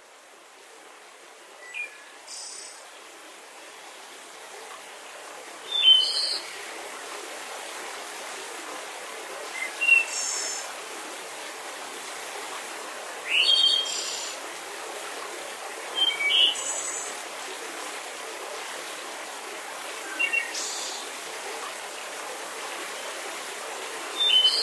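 Birds calling: short chirping calls every two to four seconds over a steady background hiss.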